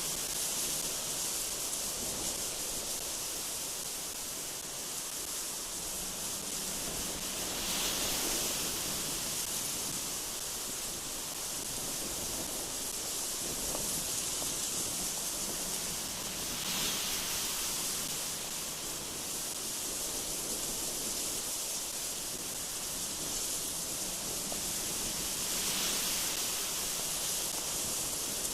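Gusty wind blowing through trees: a steady, hissing rush that swells into gusts about every nine seconds.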